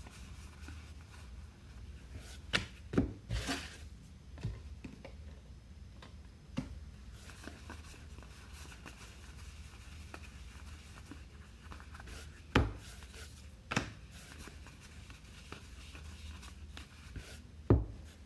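Trading-card packs and cards being handled on a table: quiet rustling with scattered sharp taps and knocks, a cluster of them a few seconds in and single ones later, over a low steady hum.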